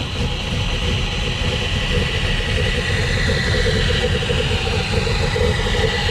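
A car's V8 engine idling steadily with a low exhaust rumble, most likely the Trans Am WS6's 5.7-litre LS1.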